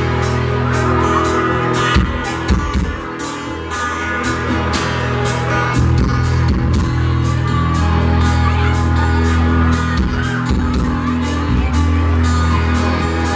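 Country band playing live and loud, with the drum kit keeping a steady beat under bass and guitar; no lead vocal comes through.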